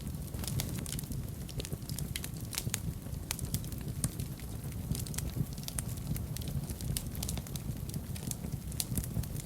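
Wood fire burning in a fireplace: a low steady rumble of the flames with frequent sharp crackles and pops scattered throughout.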